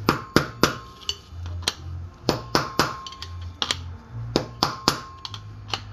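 Hammer striking metal again and again, about a dozen sharp blows with a brief metallic ring, driving a bearing race out of a Toyota Tacoma front wheel hub.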